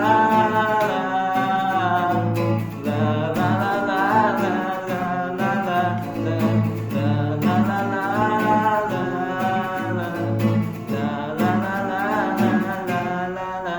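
Acoustic guitar strummed in a steady rhythm under a voice singing a melody.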